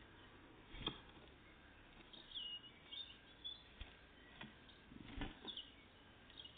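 Faint, short high calls of tits, several chirps including one falling note about two seconds in. Between them come a few soft knocks or taps.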